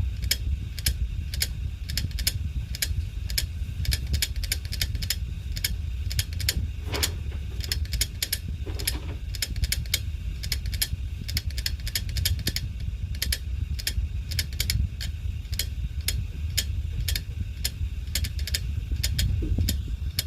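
Hard disk drive making an abnormal noise: rapid, unevenly spaced clicks and ticks, about three or four a second, over a steady low hum.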